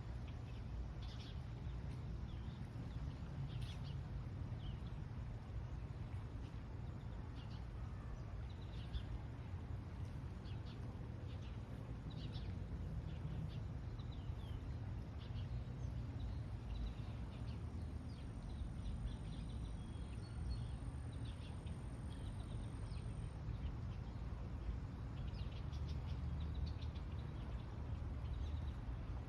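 Short bird chirps scattered throughout over a steady low rumble of outdoor ambience, with a faint thin high tone for several seconds midway.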